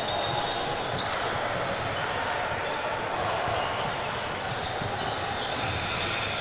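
Basketball game sounds in a gym: a ball being dribbled on the court, with indistinct players' and spectators' voices echoing in the hall.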